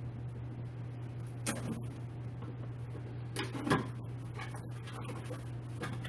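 A few short clicks and knocks from chair parts and packaging being handled, the loudest a little past halfway, over a steady low hum.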